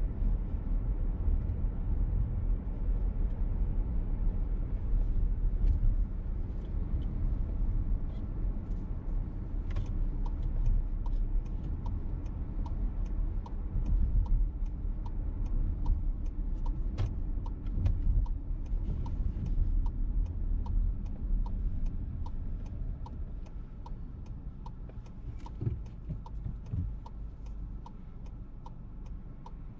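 Inside a moving VW T-Roc: steady low road and engine rumble. About a third of the way in, the turn-signal indicator starts ticking evenly for a left turn. The rumble eases off near the end as the car slows.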